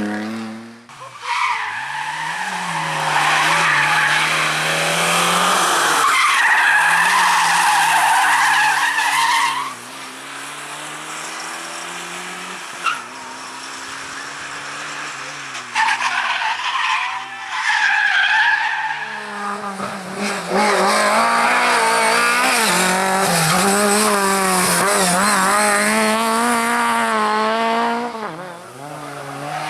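Race car engine revving hard and dropping back through gear changes, with long stretches of tyre squeal as the car slides through corners.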